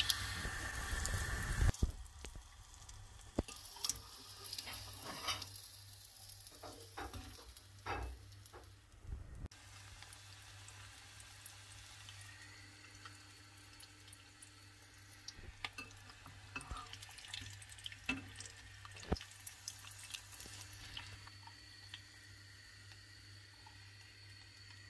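Breaded onion rings deep-frying in shallow oil: a steady sizzle with scattered pops and crackles. The sizzle is loud for the first couple of seconds, then drops to a softer hiss over a low steady hum.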